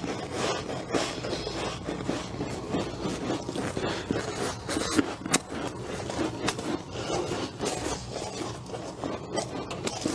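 A mouthful of frost ice being chewed: a steady stream of small crackles and a gritty grinding, with no single hard crunch standing out.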